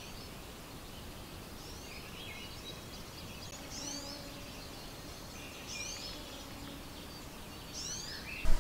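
Songbirds calling in a forest at dawn: a high, quick falling call repeats about every two seconds among softer chirps, over a steady low hiss.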